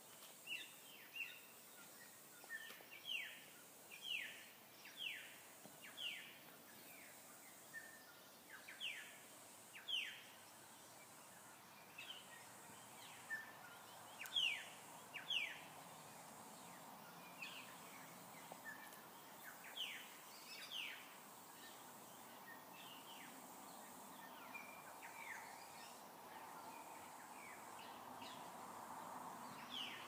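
Birds calling repeatedly in short notes that sweep down in pitch, about one a second, growing sparser in the second half, over a faint steady background noise.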